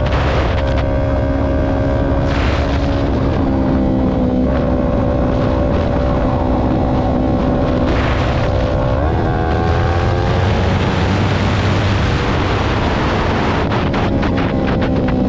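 Yamaha R3's parallel-twin engine running through an M4 aftermarket exhaust with a twisted elbow pipe, the bike under way: a steady exhaust drone that shifts pitch a few times and climbs about nine seconds in. Wind rushing on the microphone builds in the second half.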